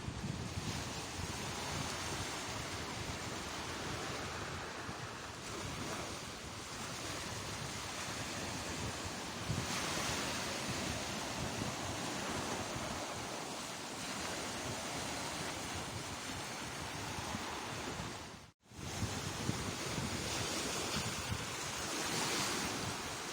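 Sea surf breaking on the shore, the wash swelling and falling every few seconds, with wind buffeting the microphone. The sound cuts out for an instant about three-quarters of the way through.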